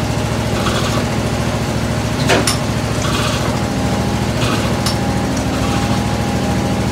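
Large 35 hp Olin hit-and-miss oil field engine being air-started: compressed air turns it over against a steady low mechanical running, with a few sharp pops as it begins to fire.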